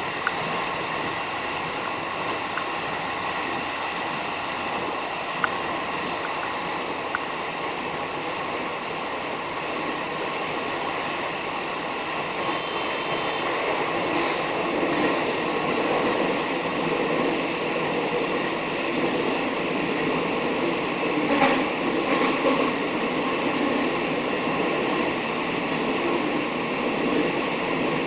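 Electric commuter train running at speed, heard from inside the car: a steady rumble of wheels on rail with a faint motor hum. It grows a little louder about halfway through.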